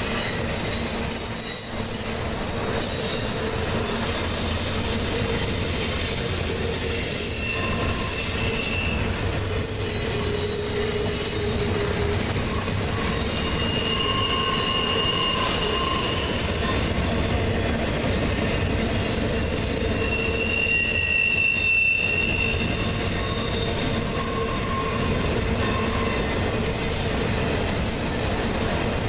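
A freight train's cars rolling past, a steady rumble of steel wheels on rail with squealing wheel flanges that rise and fade at several pitches throughout.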